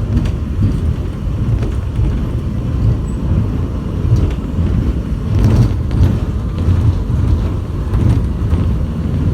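Airport underground terminal train heard from inside the car while running between stations: a steady low rumble with light rattles and clicks, swelling louder about five and a half seconds in.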